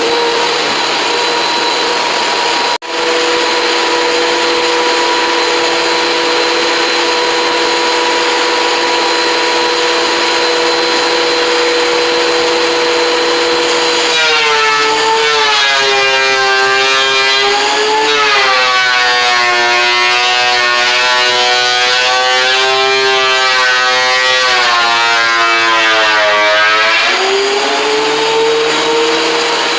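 Woodworking power tool's motor whining steadily at free speed. Midway it drops in pitch and runs rougher for about thirteen seconds as a board is fed through and cut, then climbs back to free speed near the end. The sound cuts out for an instant a few seconds in.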